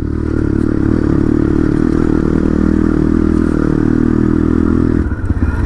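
Dirt bike engine running at steady revs while riding. Near the end the note breaks briefly, then settles again.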